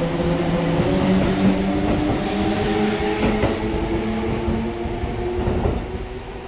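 Kintetsu limited express electric train running along the platform and away: the last car goes by at the start, then the steady motor hum and rail noise fade over the last couple of seconds.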